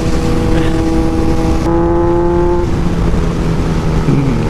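Kawasaki Z900's inline-four engine running at a fairly steady speed under way, its note shifting a couple of times, with wind rumbling heavily on the microphone.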